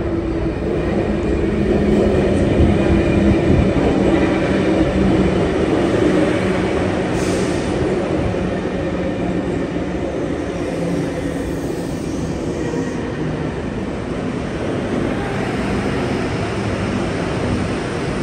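Sydney Trains stainless-steel double-deck electric train running past along the station platform: a steady rumble of wheels and motors with a low hum, loudest a few seconds in. A brief high-pitched sound comes about seven seconds in.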